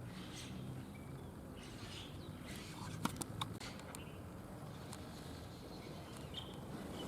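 Short, scattered bird chirps over a steady low background rumble, with a quick cluster of sharp clicks about three seconds in.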